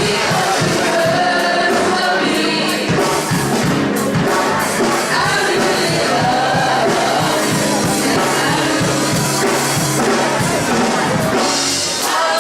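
Gospel music: voices singing over a band, with a drum kit keeping a steady beat.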